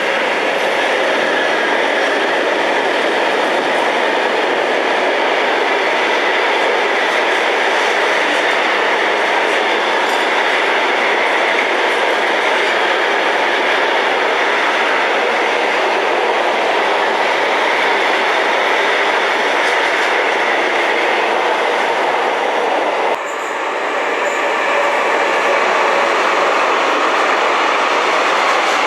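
Freight train of container wagons rolling past close by, with a steady rush of wheels on rail. About three-quarters of the way through the sound dips briefly and changes, and another freight train of tank and container wagons carries on rolling past.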